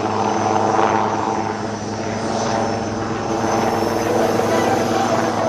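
HAL Prachand light combat helicopter in flight: steady rotor and twin-turboshaft engine noise with a steady droning hum.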